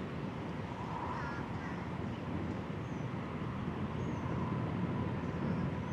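Steady outdoor background noise from the boat ramp, wind and a faint distant engine hum, with a few faint bird chirps.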